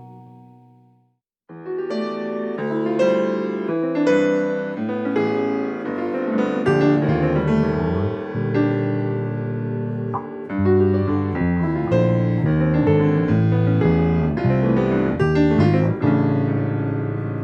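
Jazz-fusion band playing live. A held chord fades out in the first second, and after a brief silence a keyboard comes in with chords over a bass line.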